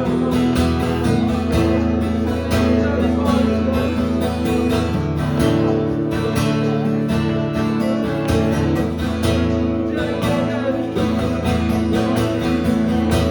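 Acoustic guitar strumming held chords in a steady rhythm, as worship accompaniment.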